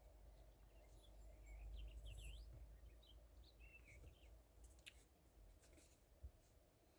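Near silence: faint low rumble with a few short bird chirps in the first half and a couple of soft clicks.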